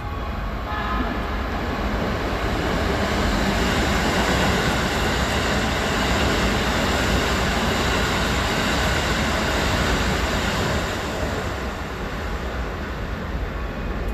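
Keikyu 2100 series electric train running through the station at speed without stopping. Its running noise builds over the first few seconds, stays loud and steady, then dies away from about 11 seconds in as the last car clears.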